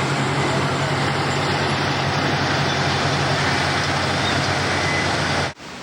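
Steady motor vehicle engine and road noise with a low hum, cutting off abruptly near the end.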